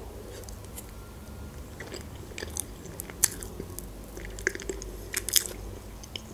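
Close-miked mouth sounds of a person eating cheesecake: soft chewing with scattered short wet clicks and smacks, a cluster of them about five seconds in.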